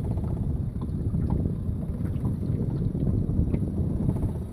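Steady low rumble of a boat moving over the water, with wind buffeting the microphone.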